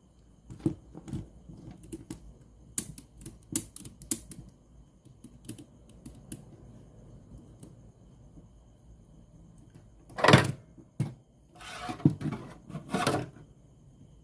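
Irregular small clicks and light knocks of parts and tools being handled, with louder knocks about ten seconds in and a short scraping rustle near the end.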